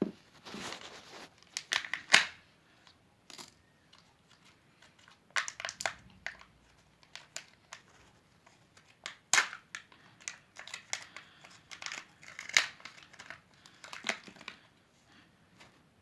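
Wrapper of a Kinder Surprise egg being crinkled and torn open by hand, in irregular bursts of crackling with short pauses between.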